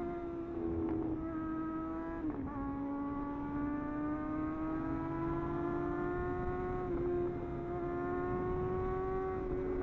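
Superbike engine under acceleration, its pitch climbing slowly and stepping down at each gear change, the clearest shift about two seconds in, over steady wind rush.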